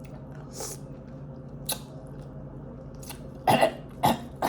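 A woman coughing in a few short bursts, the loudest coming in the last second or so, set off by the burn of the hot spice on her food.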